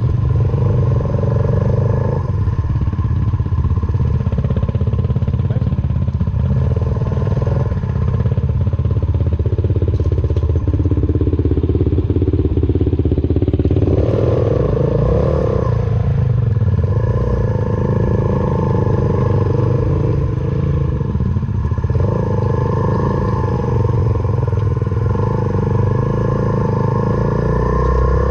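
Suzuki Van Van 125's single-cylinder four-stroke engine running through an aftermarket full exhaust system while ridden along a rough track. The engine note rises and falls several times as the throttle is opened and closed.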